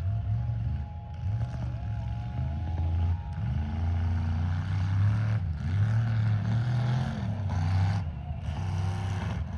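Mega truck engine revving hard, its pitch rising and falling again and again.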